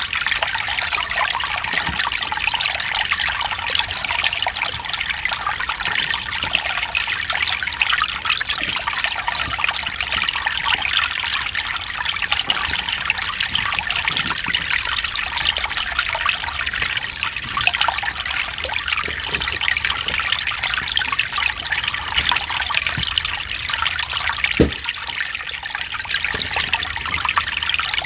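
Small mountain stream trickling and babbling over rocks, a steady bright splashing with an occasional deeper plop, one a little louder near the end.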